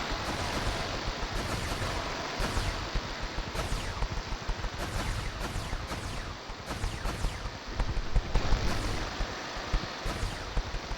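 Dense, continuous crackling hiss full of sharp pops and clicks, growing louder about eight seconds in.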